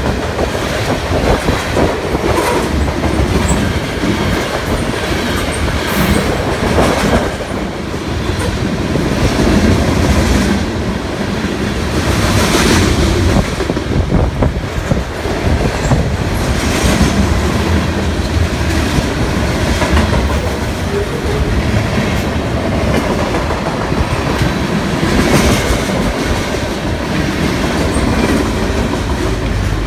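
Mixed freight train cars rolling past close by: a loud steady rumble with the clatter of steel wheels over the rails, and a few brief brighter surges of wheel noise along the way.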